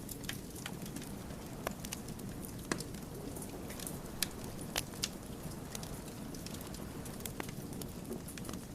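Wood fire burning: a steady low rush of flame with irregular sharp crackles and pops from the burning logs, the loudest few pops about three to five seconds in.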